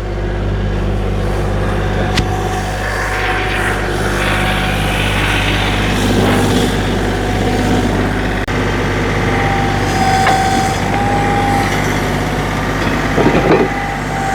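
Tractor engine running steadily as its forks take the strain of hoisting a boat's engine on a chain, with a sharp clank about two seconds in and a steady high whine from about ten to twelve seconds in.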